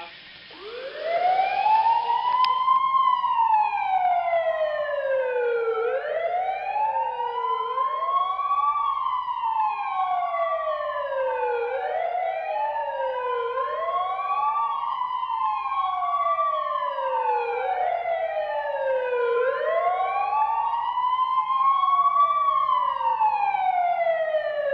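Emergency-vehicle sirens wailing: two overlapping sirens, each rising and falling slowly over a few seconds, starting about a second in.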